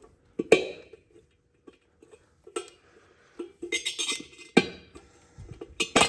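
Scattered metallic clinks and knocks of metal parts being handled, the loudest about half a second in, a cluster of them around the middle and a few more near the end.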